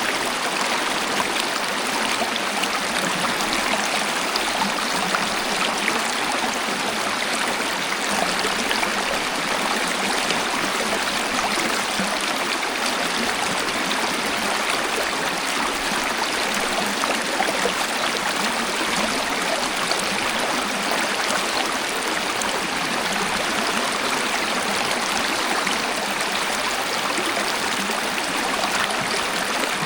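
Waterfall: water falling and flowing in a steady, unbroken rush, with little deep rumble.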